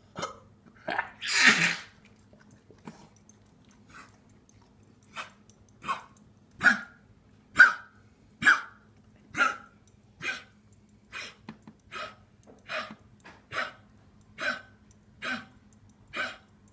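A dog wheezing. One louder, longer rasping breath comes near the start. After that come short, wheezy breaths in a steady rhythm, a little under one a second.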